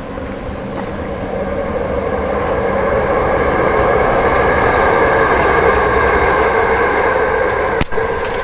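Loud rushing rumble of a passing vehicle, swelling over about four seconds and then easing off, with a brief dropout near the end.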